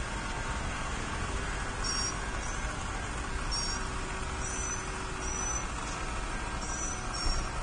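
Steady low rumble and hiss beside a stopped double-stack freight train, with six short, high chirps at uneven intervals from a bird or insect.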